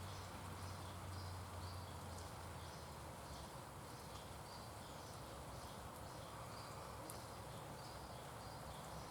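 Faint insect chirping, a regular pulse of about two short chirps a second, over an outdoor background hiss. A low hum runs under it and stops about two seconds in.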